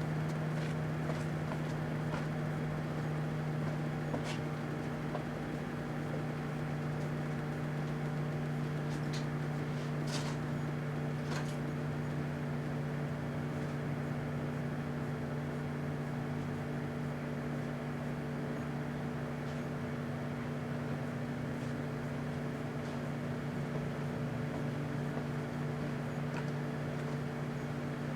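Microwave oven running with a steady electrical hum and fan noise while heating a 9-volt battery, with a few faint clicks; the battery does not pop, spark or burst.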